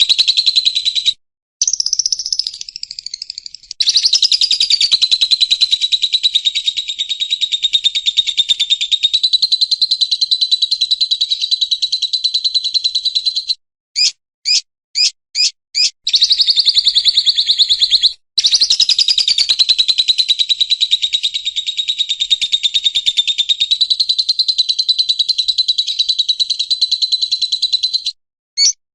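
White-rumped shama (murai batu) singing in long, loud, very fast rattling trills around a steady high pitch. The trills are broken in the middle by a short run of about five separate sharp notes.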